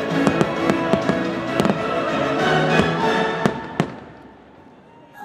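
Aerial fireworks shells bursting in a rapid string of bangs over a show's musical soundtrack. The last bang comes just before four seconds in, then the bangs and music die away to a low level.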